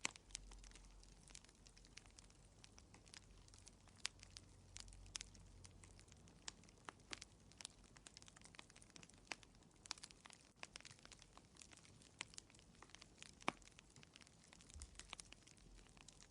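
Wood fire crackling in a fireplace: irregular sharp pops and snaps, several a second, over a faint low rumble.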